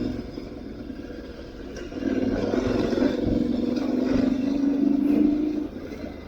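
Aprilia Tuareg 660's parallel-twin engine running under way, quieter at first, then opening up and holding a steady, louder note from about two seconds in, before easing off near the end.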